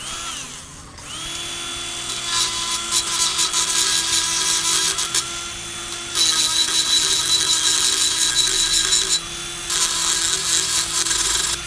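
Small rotary tool with a grinding stone, running at a steady high whine while grinding against the aluminium crankcase of a Rotax 277 to rough up the surface for JB-Weld. It spins down briefly at the start, comes back up to speed about a second in, and lifts off the metal for a moment near the end before grinding again.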